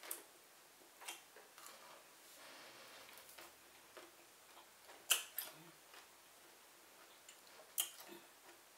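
Close-miked chewing of a jalapeño pepper, with sparse sharp mouth clicks and smacks. The loudest come about five seconds in and again near eight seconds.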